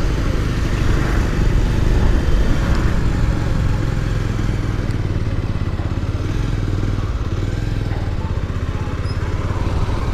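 Motorcycle engine running steadily as the bike is ridden at an even pace.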